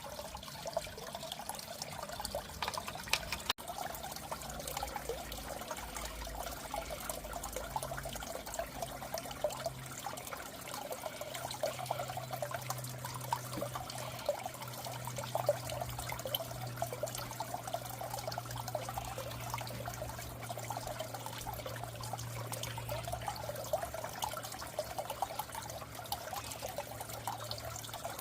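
Water trickling and bubbling in a goldfish aquarium, steady and unbroken, with a low steady hum underneath.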